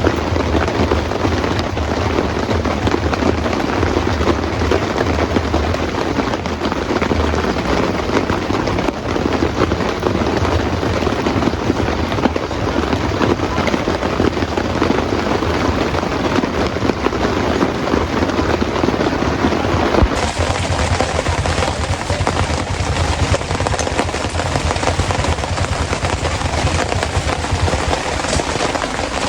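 Heavy rain falling steadily, a dense crackle of drops hitting a surface. About two-thirds of the way through the sound changes abruptly, with less low rumble and more hiss.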